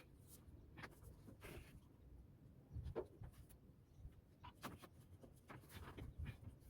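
Near silence, broken by faint scattered clicks and light taps, with a slightly louder tick about three seconds in and another near five seconds.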